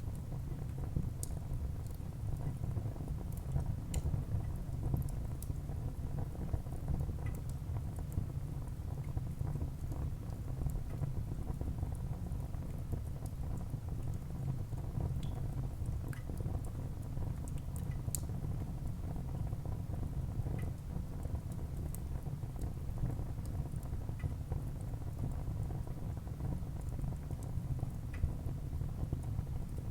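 Wood fire burning in a fireplace: a steady low rumble of flames with scattered crackles and small pops of the burning wood.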